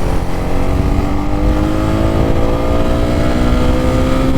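Honda CB300R's 286 cc single-cylinder liquid-cooled four-stroke engine pulling in gear, its note rising slowly and steadily as the bike speeds up. It runs over a steady low rumble.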